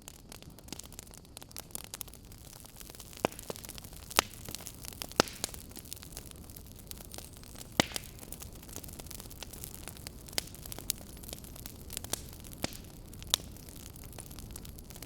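Wood fire burning in a fireplace: a steady soft hiss with irregular sharp crackles and pops, a few louder snaps among them.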